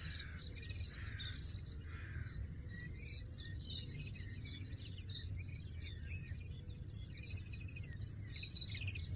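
European goldfinches twittering: bouts of rapid, high, tinkling chirps, strongest near the start, around the middle and again near the end, over a low steady rumble.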